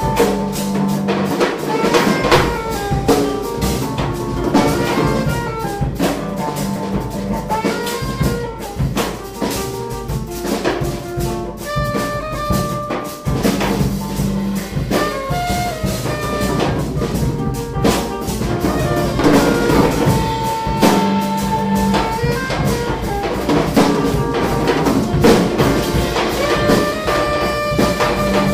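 Live jazz: a saxophone plays a line of held and moving notes over busy drumming on drum kits.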